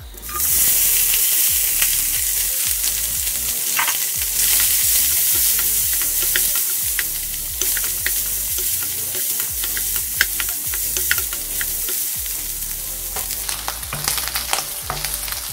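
Cubes of Spam dropped into hot oil in a wok, sizzling and frying, the sizzle starting suddenly just after the start. A wooden spatula stirs and pushes the cubes around the wok, with scattered clicks and taps that come thicker near the end.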